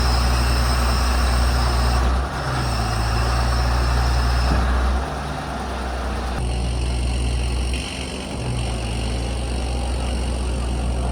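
Isuzu Forward truck's diesel engine running at idle, a steady low hum that drops a step in loudness about five seconds in.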